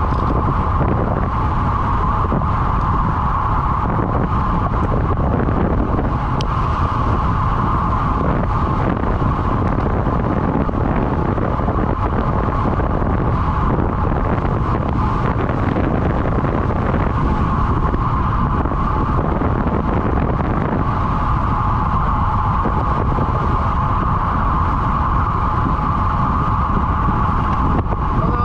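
Wind rushing over the microphone of a camera on a road bike riding at speed, a steady loud rumble with a constant hum from the bike underneath it.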